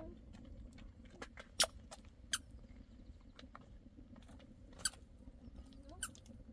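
Irregular sharp clicks and taps, about a dozen, a few of them louder, over a low steady background rumble.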